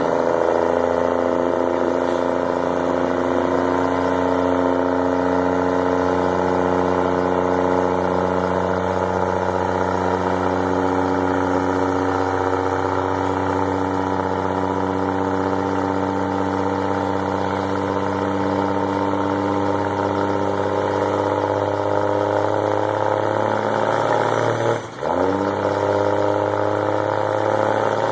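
A vehicle engine idling steadily at a low, even pitch. A brief dip comes near the end, after which the engine note begins to rise.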